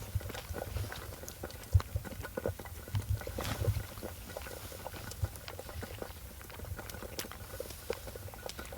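Pot of buckwheat boiling on a camp stove, bubbling with many irregular small pops and clicks.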